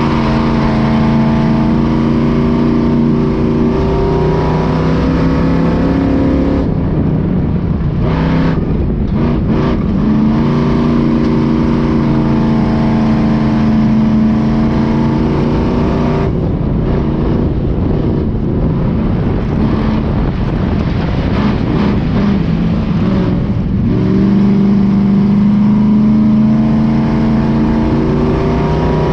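Race truck engine running hard during a dirt-track democross heat, the engine note holding and climbing in long pulls. Twice, about a quarter of the way in and again past the middle, the steady note breaks up into a rougher, noisier sound before the pull picks up again.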